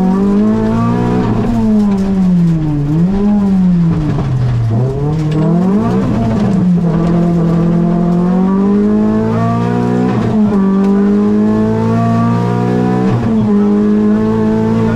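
Rally car engine heard from inside the cabin. It revs up and down repeatedly through the first six seconds, then pulls hard and rises in pitch, with quick upshifts about ten and thirteen seconds in that each drop the revs before they climb again.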